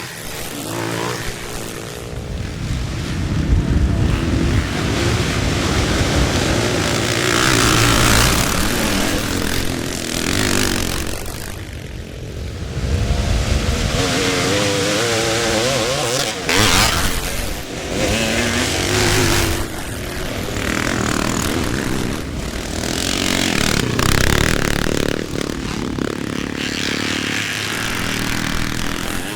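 Classic and twinshock motocross bikes racing past, several engines revving up and down as riders go by in turn, with louder swells as bikes come close.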